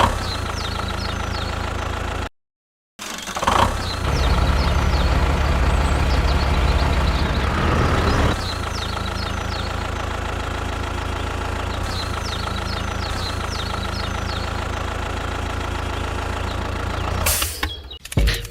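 Steady engine running at idle, louder and heavier for a few seconds in the middle, with birds chirping throughout. A brief cut to silence comes about two seconds in.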